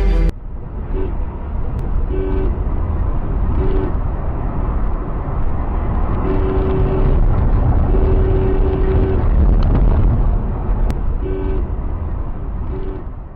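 Car horn honking repeatedly: about five short toots and two longer blasts of about a second each, over steady road and engine rumble.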